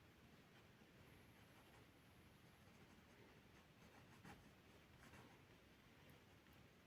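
Faint scratching of a drawing tool moving over notebook paper in short strokes, with a few soft ticks.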